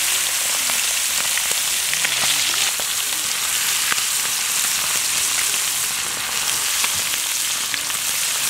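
Chicken legs frying in hot oil and butter: a steady sizzle with scattered small pops.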